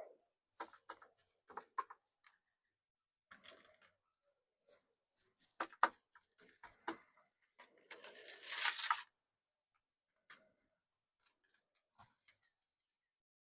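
Seasoning shaker being shaken and tapped over a chuck roast, in short irregular rattling bursts, with one longer burst of shaking about eight seconds in.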